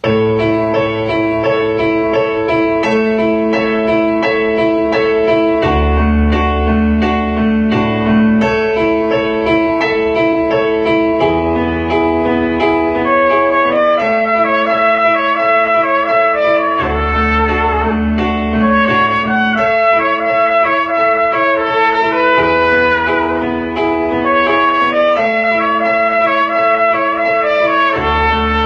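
Trumpet playing a melody in held notes over an accompaniment of piano and a low bass line, starting at once.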